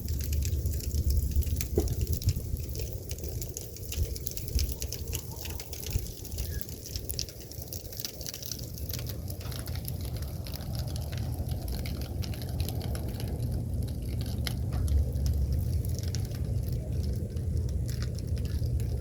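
Storm wind buffeting the microphone in a low, uneven rumble, with many light ticks scattered through it.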